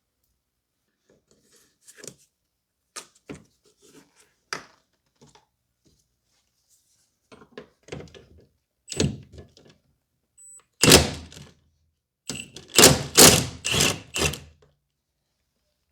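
Hand tools working on bolts in a car's engine bay: scattered clicks and knocks of metal on metal and plastic, then two louder runs of rapid clicking near the end.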